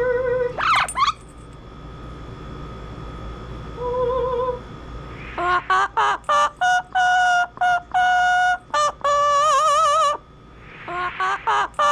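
Double yellow-headed Amazon parrot singing: a rising whistle about a second in, then from about five seconds a run of short, clear pitched notes in a tune-like phrase. Some notes waver in pitch like an operatic vibrato.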